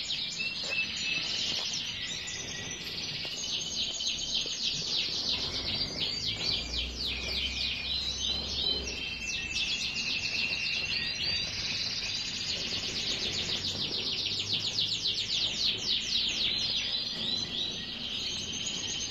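Several small songbirds singing at once: rapid high trills and chirps overlapping without a break.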